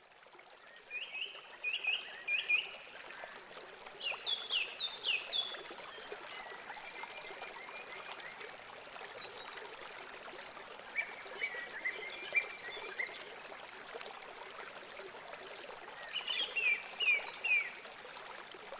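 Steady rush of river water, with a small songbird singing four short phrases of quick repeated chirps.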